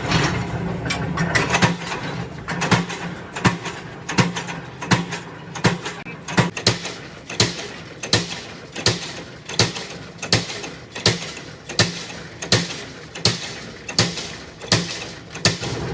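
A long series of sharp knocks at an even pace, about three every two seconds, over a low steady hum.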